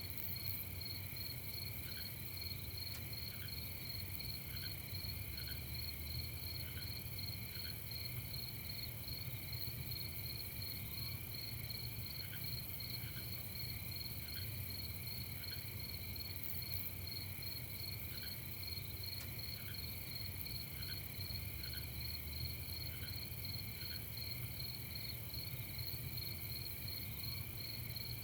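Night chorus of crickets trilling steadily at several pitches, with short higher chirps from another insect repeating irregularly, over a low steady rumble.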